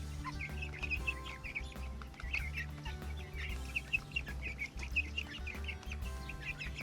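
A flock of three-week-old Cornish Cross broiler chicks peeping, many short chirps overlapping continuously, with background music underneath.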